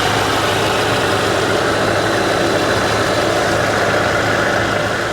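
Mercedes-AMG CLA 35's turbocharged 2.0-litre inline-four engine idling steadily, with a low, even hum.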